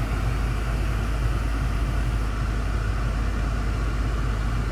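BMW M5 F10's twin-turbo V8 idling, a steady low hum heard from inside the cabin.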